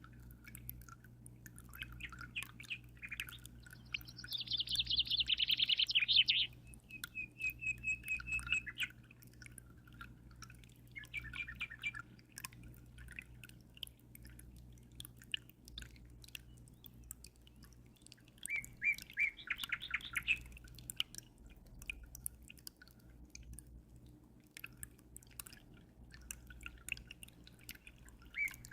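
Small songbirds chirping and trilling in repeated bursts, the loudest a fast trill a few seconds in. Faint water dripping runs underneath.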